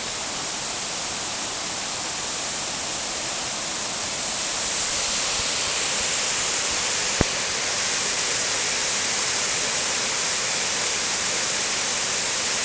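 Small waterfall rushing steadily, noisy with water running high after recent rain, growing slightly louder about four seconds in. A single sharp click about halfway through.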